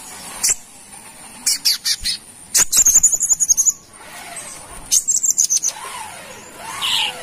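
Sunbird singing: groups of rapid, very high-pitched chirps and twittering trills, with short pauses between them.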